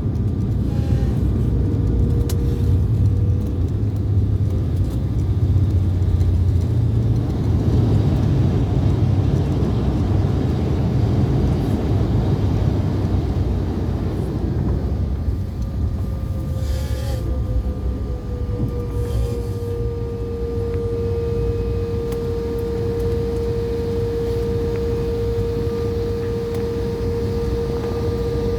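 Cabin noise of a regional jet airliner just after landing: a loud, steady low rumble of the engines and airframe rolling on the ground, heavier in the first half. A steady engine whine comes in about two-thirds through and holds.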